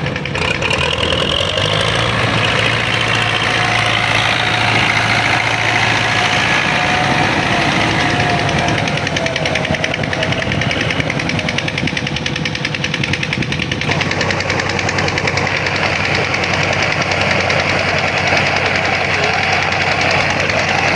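Old tractor engine running steadily with a rapid, even firing rhythm. Its sound shifts about two-thirds of the way through.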